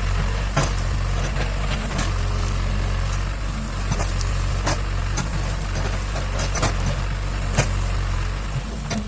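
Excavator's diesel engine running steadily, with scattered sharp knocks and clanks over it.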